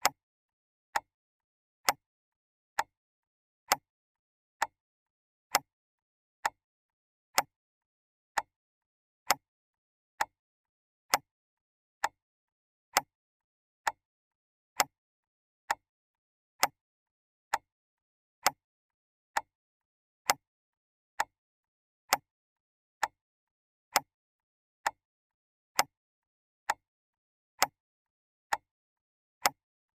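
Clock ticking steadily, a sharp tick about once a second.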